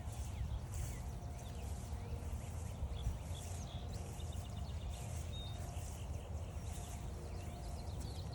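Wild birds singing and calling: a high song repeating about once a second, with scattered short chirps, over a steady low rumble.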